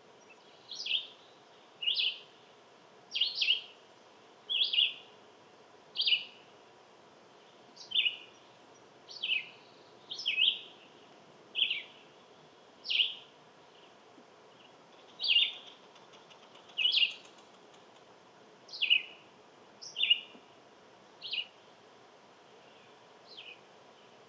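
A bird calling: a short, sharp note sweeping downward in pitch, repeated about every second and a half, some sixteen times. The last note is fainter.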